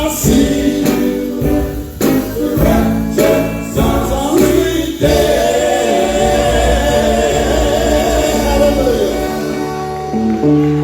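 Male gospel quartet singing with their band, with several heavy drum hits in the first five seconds. Voices and band then hold a long final chord, the voices wavering in pitch.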